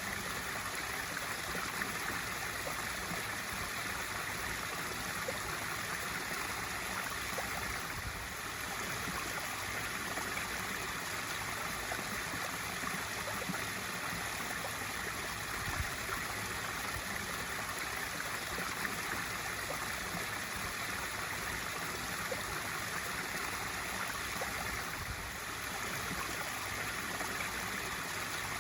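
Swimming pool waterfall feature pouring steadily into the pool: a continuous splashing, trickling rush of water.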